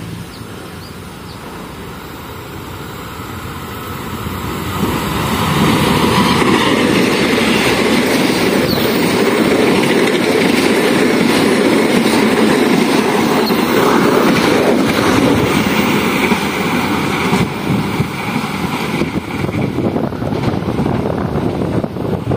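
Argo Wilis passenger train, diesel-electric locomotive and carriages, passing close by. The sound swells about four seconds in and stays loud with the steady rumble of wheels on rail, turning more uneven near the end.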